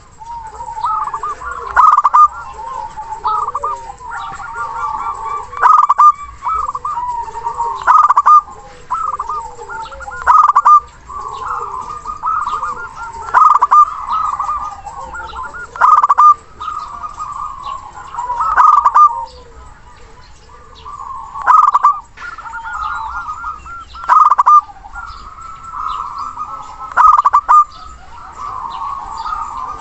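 Zebra doves (perkutut) cooing: rapid strings of burbling coo notes overlap without a break, with a louder call about every two to three seconds.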